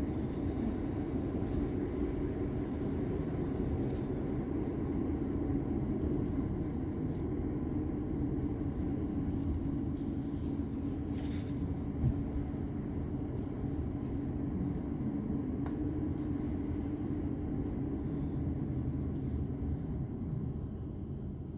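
Steady low rumble of a car driving, road and engine noise heard from inside, with one brief knock about halfway through.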